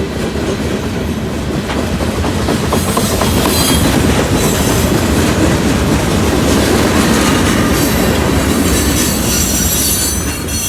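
A freight train's cars rolling past on the rails, a loud, steady rumble and clatter of wheels. Thin high wheel squeals come in about three seconds in and again near the end.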